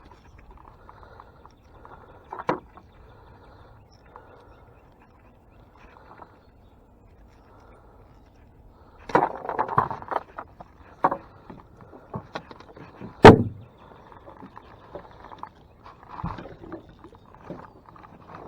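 Scattered knocks and thumps in a small fishing boat as a caught catfish is handled: one knock early, a cluster about nine to ten seconds in, and one loud thump about thirteen seconds in.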